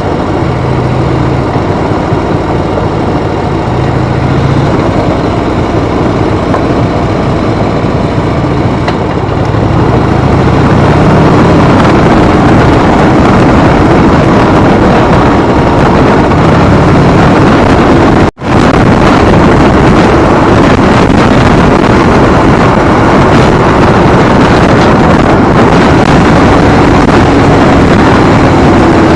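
Harley-Davidson motorcycle engine running under way, with wind buffeting the microphone; the engine note rises and gets louder about a third of the way in as it speeds up. The sound cuts out for an instant just past halfway.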